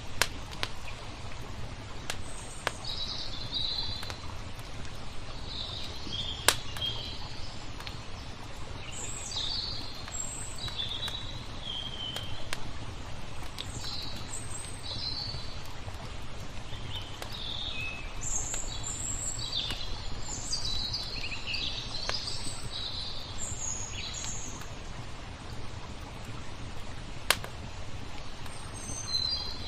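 Songbirds chirping and singing in short, varied phrases over a steady low rushing noise of water, with a few sharp pops from a crackling wood fire.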